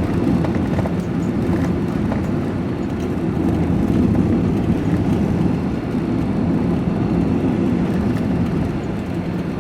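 Van engine and road noise heard from inside the cab while driving at a steady speed: a continuous low rumble.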